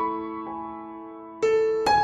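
Soft background piano music, with sustained notes and a new chord struck about halfway and again near the end.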